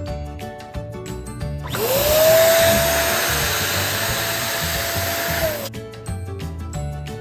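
Small electric air pump running for about four seconds, a rush of air with a motor whine that rises quickly as it spins up, holds steady and dips as it cuts off, over background music with a steady beat.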